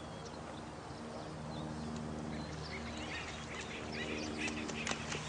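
Night nature ambience: scattered short bird chirps and calls over a steady low hum, with a quick run of clicks or flutters toward the end.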